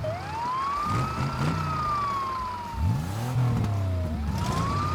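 Cartoon rescue vehicle's siren wailing over its revving engine: the tone climbs fast, sinks slowly, then climbs again near the end.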